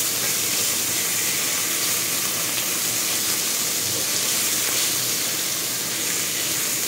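Chicken pieces sizzling steadily in hot oil in a nonstick frying pan as they are stirred and spread out with a spatula.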